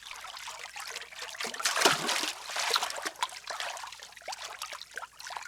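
River water trickling and splashing over rocks, with a louder splash about two seconds in from a skipped stone hitting the water.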